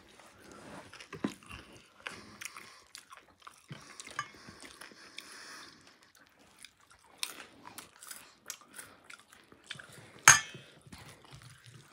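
Crunchy chewing of chatpat, a dry puffed-rice and instant-noodle snack, with small crackles throughout and spoon clinks on a steel bowl. There is one sharp, loud clink a little after ten seconds in.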